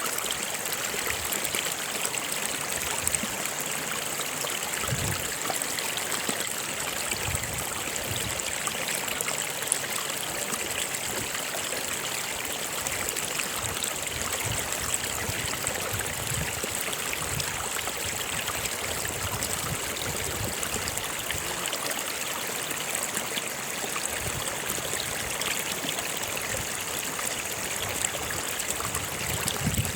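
Stream of water running steadily, with a continuous rushing and trickling.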